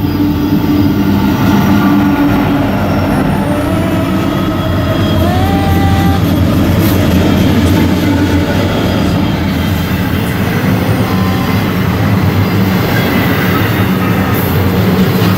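A train passing close by on the tracks: a loud, steady rumble of the cars rolling over the rails, with thin high squeals from the wheels.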